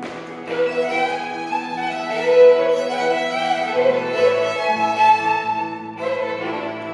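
Violin playing a gliding melody over sustained low notes in a song's instrumental passage.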